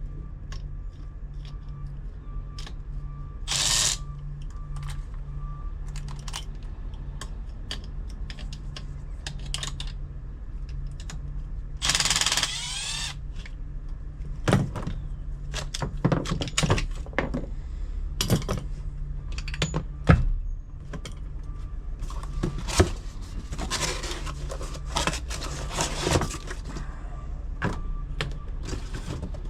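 Hand work on an air handler's blower motor and its wiring: scattered clicks, knocks and metal clatter of tools and parts being handled, over a steady low hum. Two short, louder bursts of rasping noise stand out, one a few seconds in and one about twelve seconds in.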